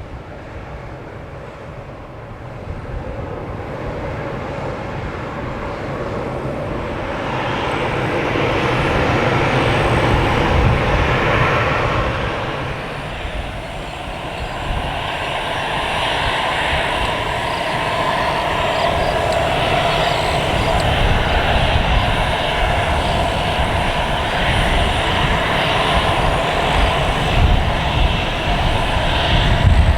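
Twin turbofan engines of an Embraer 170 jet airliner coming in to land, a steady roar growing louder over the first ten seconds, easing briefly, then staying loud through the landing.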